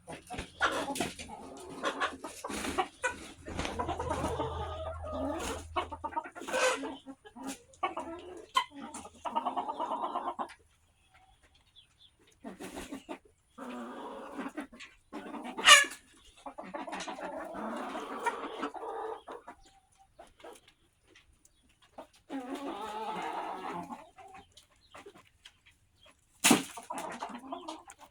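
Backyard chickens clucking in bouts with short pauses between them, eating scratch grain. A few sharp clicks stand out, the loudest about halfway through and near the end.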